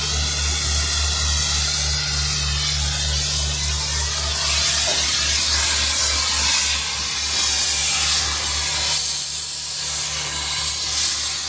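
Cutting torch hissing steadily as it burns through frame bolts, getting brighter about halfway through. An engine idles underneath with a low, pulsing hum.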